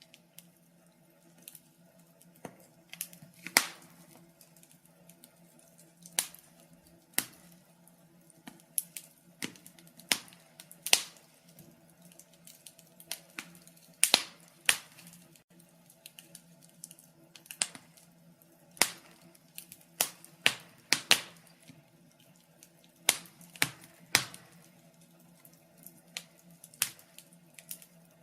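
Wood fire crackling: irregular sharp pops and snaps at uneven intervals, some much louder than others and a few bunched together, over a faint steady low hum.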